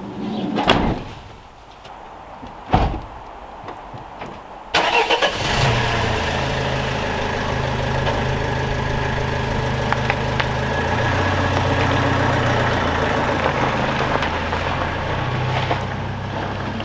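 A few sharp knocks, then about five seconds in a car engine starts and keeps running steadily at idle.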